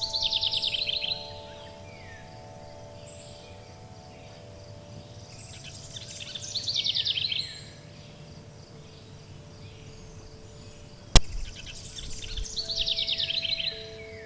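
A songbird sings the same short, fast descending trill three times, about six seconds apart, over long, steady wind-chime tones and a faint low rumble. A single sharp click sounds about eleven seconds in.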